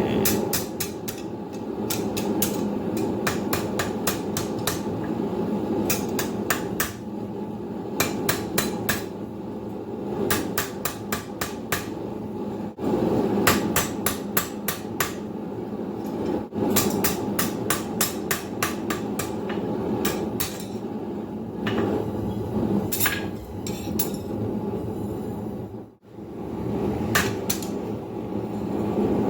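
Hand hammer striking hot steel bar stock on an anvil in quick runs of blows with short pauses between, over the steady noise of a propane forge.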